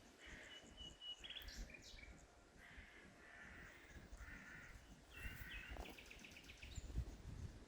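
Faint birds calling: a string of short, repeated calls, a thin whistled note early on, and a quick trill near the end, over low outdoor background noise.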